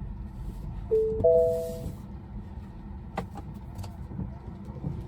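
Two-note electronic chime from a Tesla's cabin, a lower tone followed by a higher one, about a second in, over steady low road noise. Two short clicks follow a little after three seconds.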